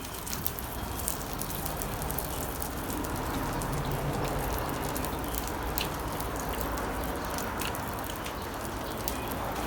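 Meat sizzling on a barbecue grill over a fire: a steady hiss with scattered crackles and pops of spitting fat.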